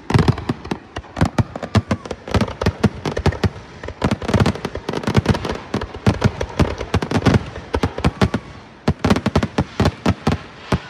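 Fireworks finale: a rapid barrage of many bangs in quick succession, stopping just before the end.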